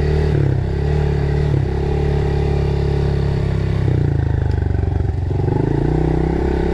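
Dirt bike engine running under way, its note dropping and picking back up several times as the throttle changes, with some rattling.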